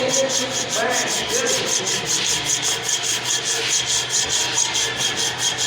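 Abrasive rubbing strokes on a metal job, repeating evenly at about four or five strokes a second.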